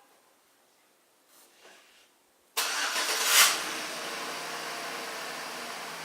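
Vehicle engine starting about two and a half seconds in, revving up briefly and then settling into a steady idle.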